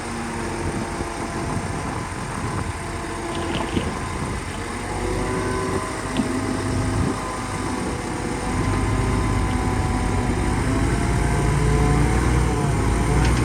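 Shantui bulldozer's diesel engine running under changing load, its pitch rising and falling, with a heavy low rumble that swells about two-thirds of the way through and a few light clicks.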